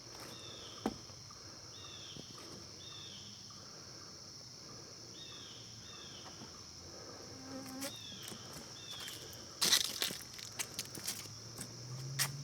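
Steady high-pitched insect drone, with a bird repeating a short arched call note about seven times. In the last few seconds comes a cluster of sharp clicks and knocks.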